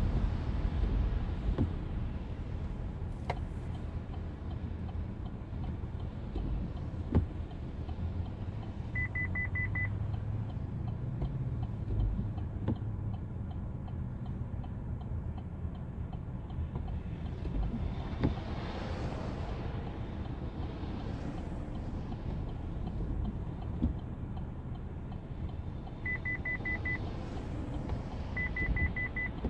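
Low, steady vehicle engine rumble, with three short runs of rapid high-pitched beeps, about nine seconds in and twice near the end, and a rising then fading rush around the middle.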